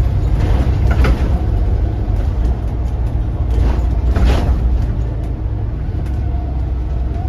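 Volvo B7RLE bus's six-cylinder turbo diesel engine running under way, heard from inside the bus as a steady low rumble. Two brief surges of hissing rattle come about one second in and again about four seconds in.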